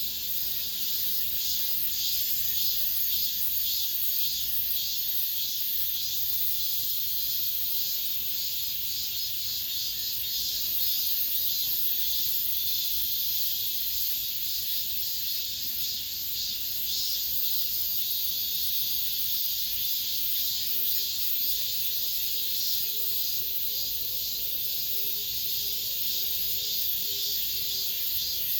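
Cicadas singing in a dense, continuous high-pitched buzzing chorus with a fine pulsing texture.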